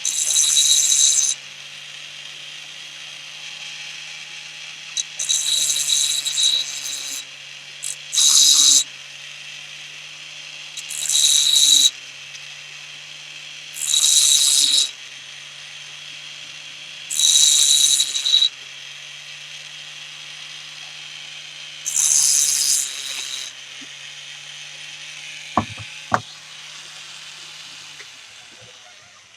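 A small machine-shop machine runs with a steady low hum while metal is worked in seven harsh, hissing passes, each about a second long, every few seconds. Two sharp clicks come near the end.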